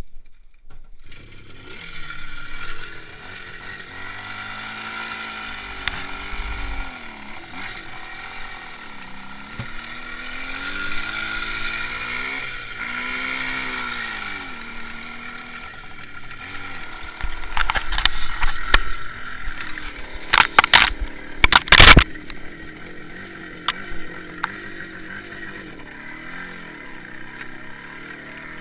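IZh Jupiter-5's two-stroke twin engine running while riding, its pitch rising and falling again and again with the throttle, with a mechanical rattle. Several loud sharp knocks and clatters come about two-thirds of the way through.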